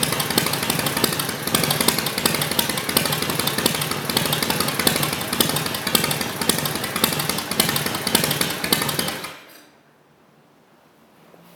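1946 Harley-Davidson WL's 45 cubic-inch flathead V-twin engine, with magneto ignition, running with a rapid pulsing exhaust beat. It cuts out suddenly about nine seconds in.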